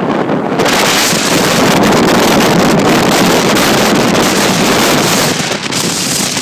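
High wind from Hurricane Sandy blowing hard across the microphone, a loud continuous rush that swells in a gust about half a second in and eases briefly near the end.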